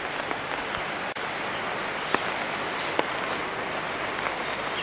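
Steady hiss of water, with a few sharp ticks about two and three seconds in.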